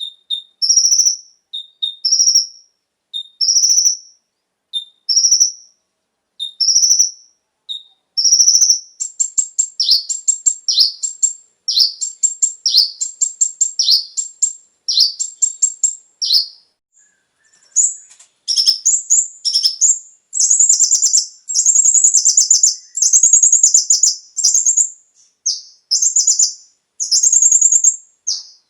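Kolibri ninja (konin) sunbird singing: evenly spaced single high chirps for about eight seconds, then fast, dense twittering trill phrases with a brief pause just past the middle, played as a lure to set caged birds singing.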